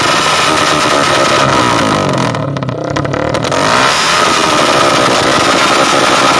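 Skygo 175 motorcycle engine revving hard through a loud aftermarket exhaust pipe. Its revs fall away briefly a little over two seconds in, then climb back up and hold high.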